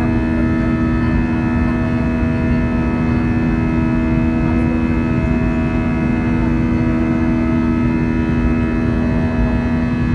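Airbus A321 airliner heard from inside the cabin: a steady jet engine and cabin air hum with several fixed droning tones over a low rumble, not changing in pitch.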